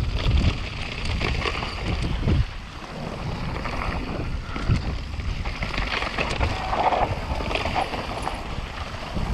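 Wind rushing over the microphone of a mountain bike descending at speed, with the rattle and clatter of the bike and tyres over rough ground.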